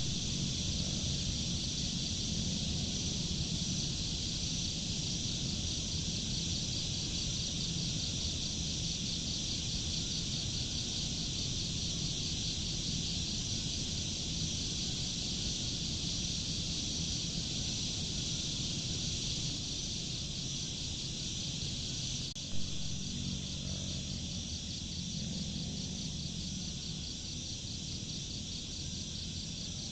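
Steady chorus of crickets and other insects: a continuous high chirring with a faint, evenly pulsed trill, over a low steady rumble. A single short click about three-quarters of the way through.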